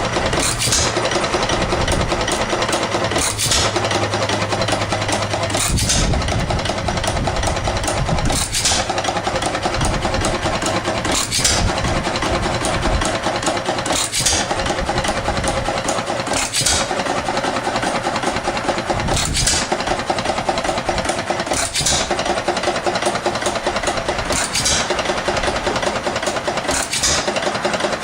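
1912 2 hp Sparta Economy single-cylinder hit-and-miss engine running: a sharp firing stroke about every two and a half seconds, with a steady fast clatter between as it coasts.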